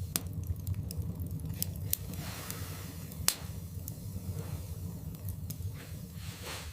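Wood fire burning in a fireplace: a steady low rumble of the flames with irregular crackles and pops from the logs, the loudest sharp pop about halfway through.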